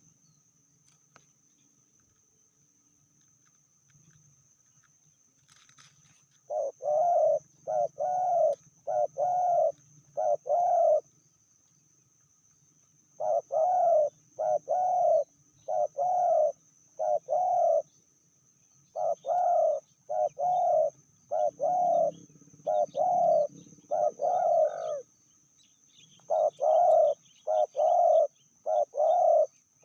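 Spotted dove (tekukur) cooing: after about six seconds of near quiet, repeated phrases of short notes, four to seven to a phrase, with brief pauses between them. A faint steady high tone runs underneath.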